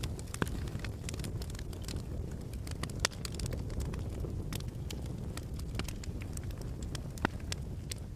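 Wood fire crackling in a fireplace: irregular sharp pops and snaps over a steady low rumble, with a couple of louder pops.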